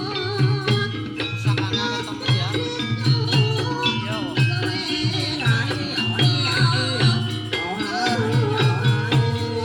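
Javanese gamelan music for an ebeg horse-dance: struck metal keys ringing short tones over a steady, regular low drum beat.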